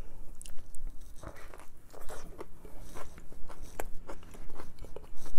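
Close-miked biting and chewing of a chicken Philly cheesesteak sandwich on a toasted roll: a string of short, irregular crunches and wet clicks.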